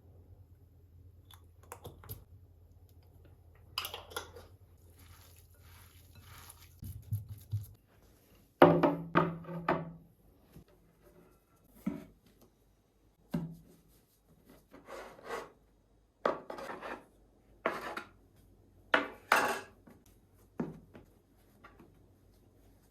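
Kitchen handling sounds: dishes, utensils and wooden kitchen tools knocked and set down on a counter in a series of separate clatters, over a low hum that stops about seven seconds in.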